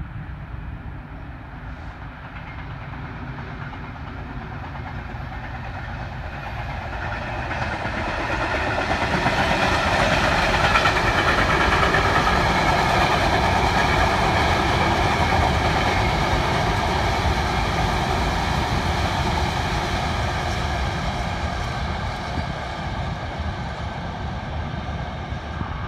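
Freightliner diesel locomotive hauling a freight train past. The engine and the rolling wagons grow louder to a peak about ten seconds in, then slowly fade as the train moves away.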